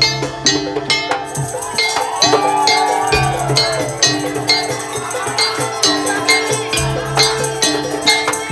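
Madurese tong-tong percussion ensemble playing: evenly spaced struck beats at about three a second over held low tones, with a sliding melodic line above.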